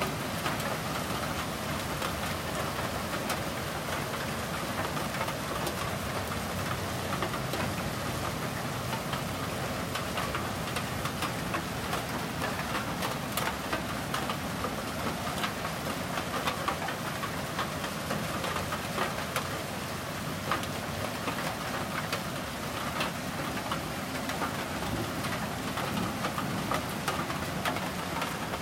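Steady rain falling, a continuous hiss with many sharp ticks of drops striking nearby surfaces.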